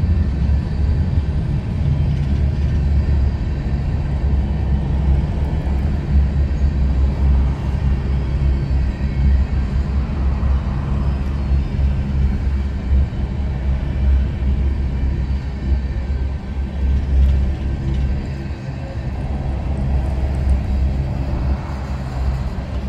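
BNSF coal train rolling slowly past, a steady low rumble with mid-range rolling noise that swells and fades a couple of times.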